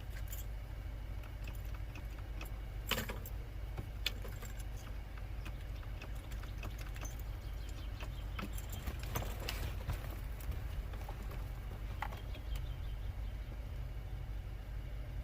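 A few scattered light clicks and rattles over a steady low rumble, with no engine or starter running.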